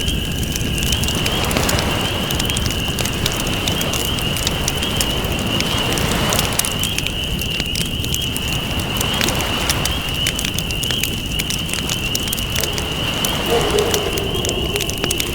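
Campfire crackling with many sharp pops over waves washing in and out, the surf swelling and easing every few seconds. A steady high-pitched wavering tone sits above it all, and a short lower tone sounds near the end.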